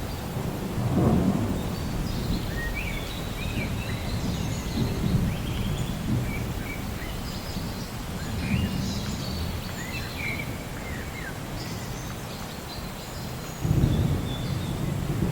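Rainforest ambience: several birds chirping and whistling in short calls throughout, over a low rumbling background that swells about a second in and again near the end.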